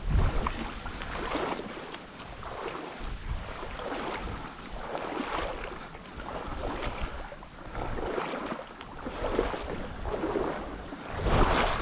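Strong wind blowing in gusts over choppy water, swelling and fading every second or two. The gusts buffet the microphone with a low rumble at the start and again near the end.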